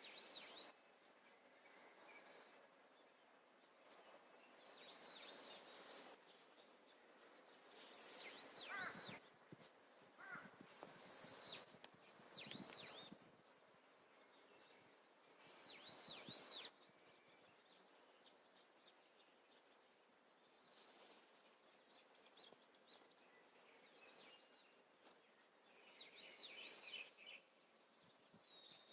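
Faint wild birdsong: small birds giving short phrases of high, arched chirps every few seconds over a quiet background hiss.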